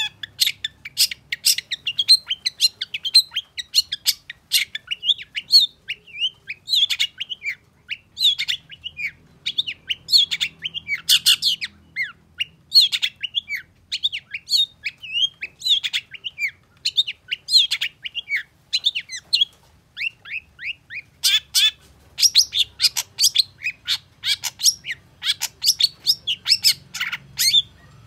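Long-tailed shrike (cendet) singing a fast, unbroken stream of short, harsh chattering notes and quick sweeping chirps, which breaks off near the end.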